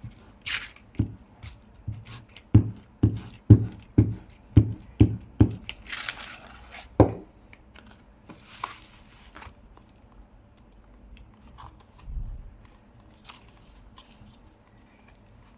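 A glue stick rubbed back and forth over paper on a table, about two dull strokes a second, stopping about seven seconds in; a couple of brief paper rustles follow.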